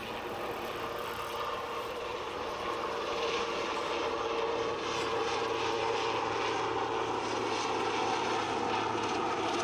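Marine Corps VH-3 helicopter flying by, its turbine and rotor sound steady and growing gradually louder.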